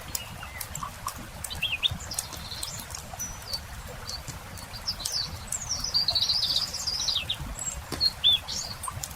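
Small birds chirping and singing in short phrases, busiest about halfway through, over the scattered pops and crackles of a wood campfire.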